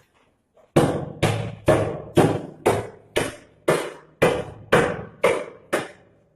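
About eleven heavy hammer blows on concrete, roughly two a second, each a sharp strike with a short ringing tail, as the concrete over the trapped kitten is broken open.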